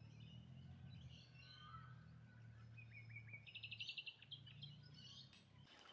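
Near silence with faint birds chirping: scattered calls and a quick run of repeated notes a little past the middle, over a faint low hum.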